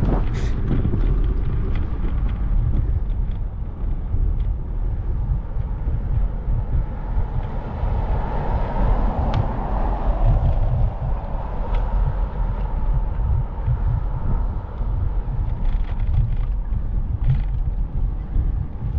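Wind buffeting the microphone on a moving bicycle, with road traffic noise; a passing vehicle swells up and fades about eight to eleven seconds in.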